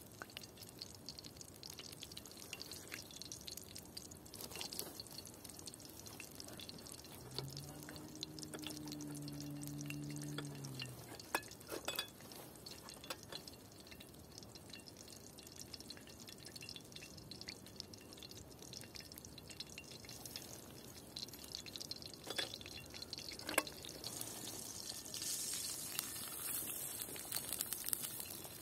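Scattered drips and small sharp clicks, with a low steady hum for a few seconds about eight seconds in.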